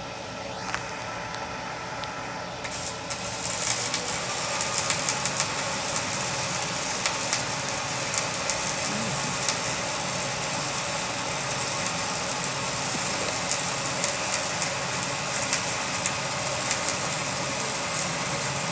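Flux-core wire welding arc striking about three seconds in, then a steady crackling hiss with frequent sharp pops as a fill bead is run. Under it is the hum of the welding machine.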